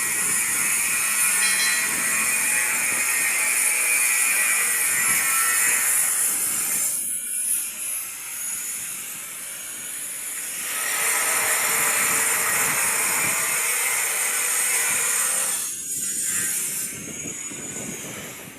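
Construction-site machinery noise: a loud, harsh, steady mechanical din with high-pitched ringing tones, easing off for a few seconds about a third of the way in and briefly again near the end.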